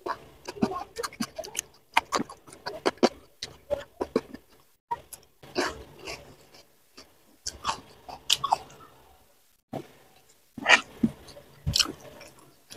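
Close-miked chewing and wet lip smacks of a person eating a mouthful of rice and side dishes, heard as irregular clusters of sharp clicks and squelches with short pauses.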